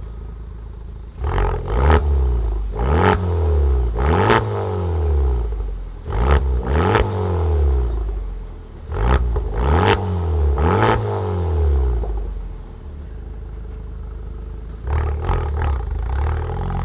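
Honda Civic Type R FK8's turbocharged 2.0-litre four-cylinder engine through a Remus front pipe and valved cat-back exhaust with the valves fully open, idling and then blipped in a run of quick sharp revs, each rising and dropping straight back. It settles back to idle, then is revved again near the end.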